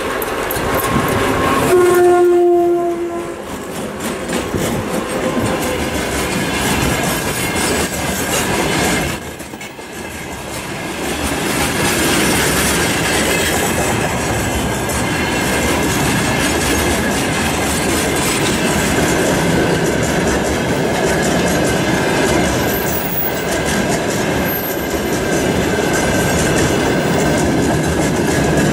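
2TE116 diesel locomotive hauling a train of tank cars: a short horn note about two seconds in, then the tank wagons roll past with wheels clacking over the rail joints.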